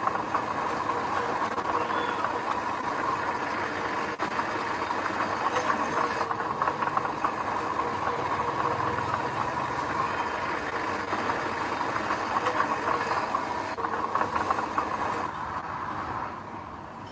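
Heavy earthmoving machinery running: a diesel engine working with a steady clatter and a whine, easing off near the end.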